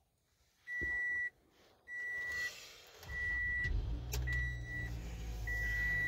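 2017 Toyota Camry XLE's engine starting on the key about three seconds in and settling into a steady idle, under five evenly spaced high beeps from the dashboard warning chime.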